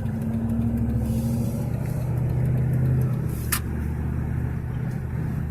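Dodge Ram 1500 pickup driving, heard from inside the cab: a steady low engine and road hum that swells slightly for a moment. There is one sharp click a little past halfway.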